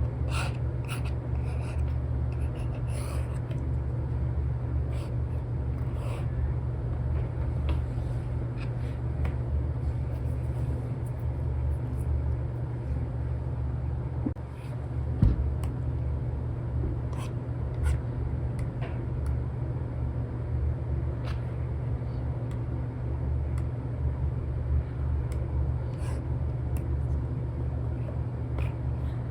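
Apple Pencil nib ticking and scratching on an iPad's paper-like screen film in short, scattered strokes, with a single louder knock about halfway through. Under it runs a steady low rumble of background white noise.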